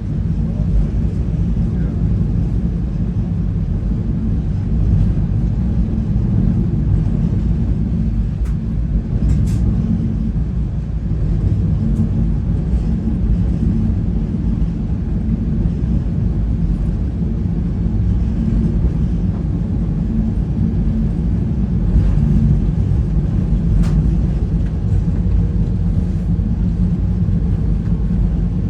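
Steady low rumble of a passenger train car rolling along the track, heard from inside the dome observation car, with a few faint clicks over it.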